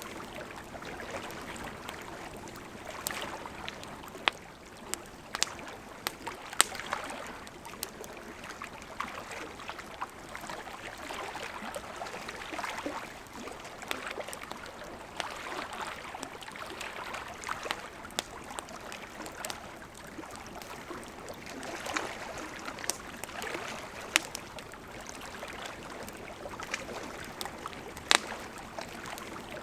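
Wood campfire crackling, with irregular sharp pops and snaps, over the steady rush of a gently flowing river.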